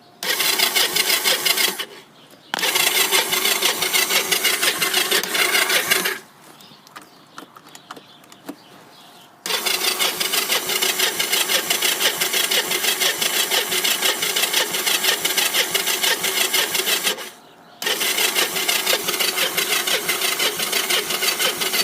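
Electric starter cranking a Kawasaki three-wheeler's engine in four long bursts with short pauses between, the engine not catching: a cold start in freezing weather on choke, with fuel still being drawn up to the carburettor.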